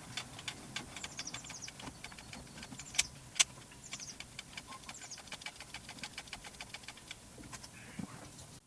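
Rapid light clicking with a few short squeaks from a diesel engine's manual fuel lift pump lever being pumped by hand to prime the fuel system, with two sharper clicks about three seconds in.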